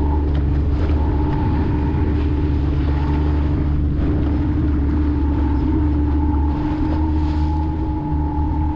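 A boat's outboard motor running steadily under way: a constant low rumble with a steady hum.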